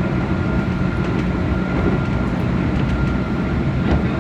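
Keihan limited express electric train running along the line, heard from the driver's cab: a steady rumble of wheels and running gear with a faint, high, steady whine.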